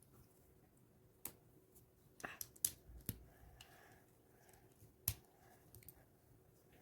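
Plastic Lego bricks clicking as pieces are handled and pressed together: scattered sharp clicks, with a cluster a little over two seconds in and a single sharp one about five seconds in.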